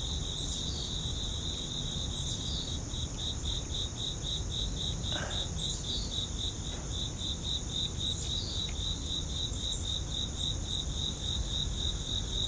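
Insects chirping in an even rhythm of about four high pulses a second, over a continuous higher insect buzz.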